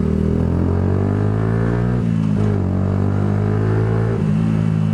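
Yamaha YZF-R125's single-cylinder four-stroke engine running under way through a Scorpion aftermarket exhaust. Its pitch dips briefly twice, about two seconds in and again about four seconds in.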